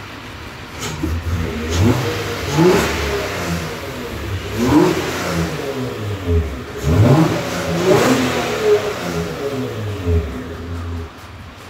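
Mitsubishi Pajero Wagon 4 engine revved several times, its pitch rising and falling with each blip before settling back near the end. The engine has just been rebuilt with a replacement crankshaft after the original cracked and knocked.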